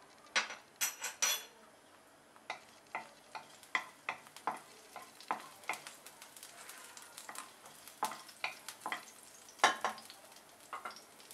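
Chopped green chillies frying in hot oil in a kadai: scattered crackles and pops as a wooden spatula stirs them around the pan, with a quick run of sharp clicks about a second in.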